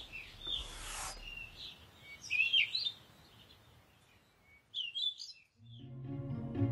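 Birds chirping in short, high calls, with a brief hiss about half a second in. Gentle music with a low, sustained bass comes in near the end.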